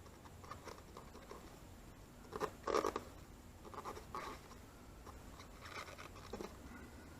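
Fingernail rubbing and scratching over vinyl decals on a plastic motorcycle side panel, pressing them down in short, irregular strokes; the loudest cluster of strokes comes about two and a half seconds in.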